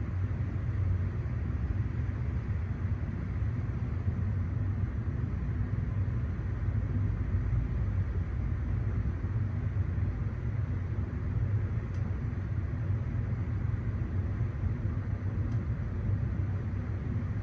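Coal train running by, a steady low rumble that holds unchanged throughout.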